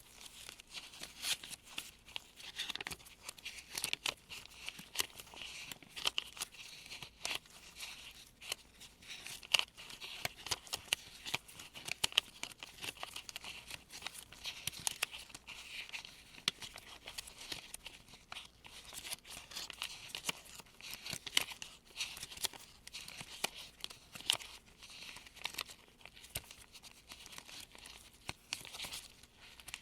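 Gloved fingers sifting through folded US one-dollar bills: continuous crisp crinkling and rustling of paper currency, broken by many small sharp ticks and flicks.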